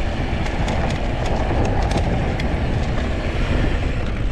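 Mountain bike riding fast over rough desert trail: steady wind rumble on the microphone and tyre noise, with frequent sharp clicks and rattles from the bike.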